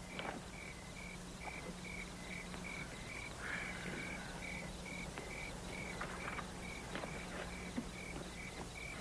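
Crickets chirping in a steady, even rhythm, about two chirps a second, over a faint low hum.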